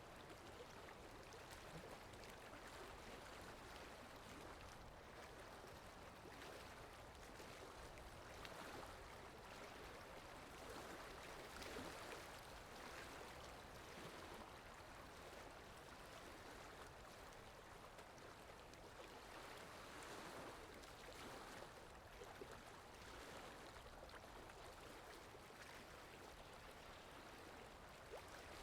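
Flowing water from a stream: a faint, steady rushing with gentle swells.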